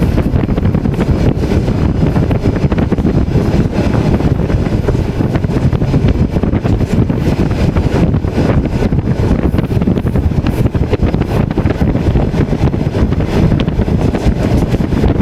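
Steady, loud rumble of a moving passenger train heard from inside the carriage, with wind buffeting the microphone at the window.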